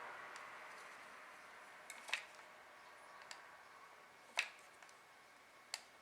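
Four sharp, isolated clicks spaced about a second apart, from a silicone caulking gun being worked while silicone is run along the hive's wooden corner joint. A faint hiss fades out at the start.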